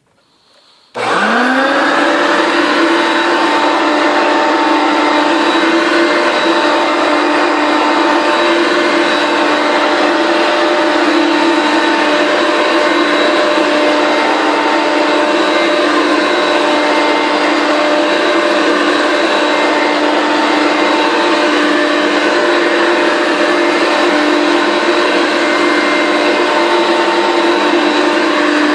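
Circa-1981 Hoover Concept One upright vacuum cleaner switched on about a second in, its motor spinning up with a rising whine, then running at a steady, loud pitch with an even hum and whine.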